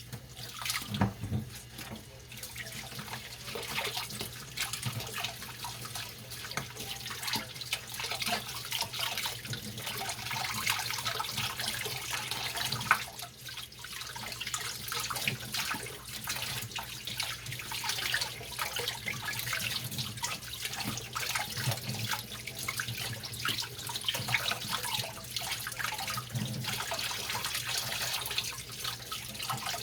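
Tap water running into a kitchen sink during hand dishwashing, with frequent short knocks and clinks of dishes throughout.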